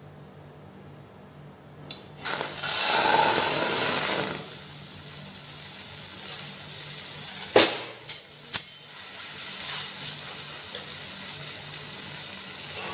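Raw chicken pieces going into hot oil in a frying pan: a loud burst of sizzling about two seconds in, settling into a steady frying sizzle with a few sharp pops near the middle.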